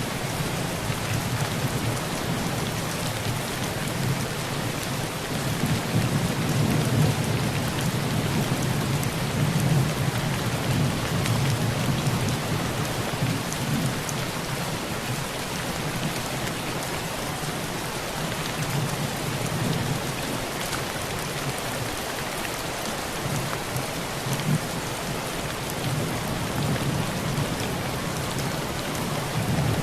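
Heavy rain falling steadily on a tin roof, with low rumbles of thunder that swell and fade several times, strongest about a quarter of the way in.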